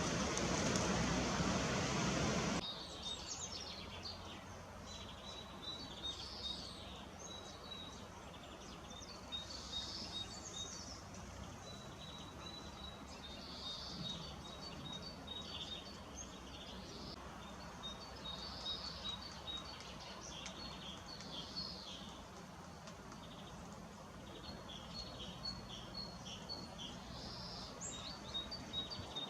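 Small birds chirping and calling, many short high calls and rapid note series overlapping. A loud steady hiss fills the opening couple of seconds and cuts off abruptly.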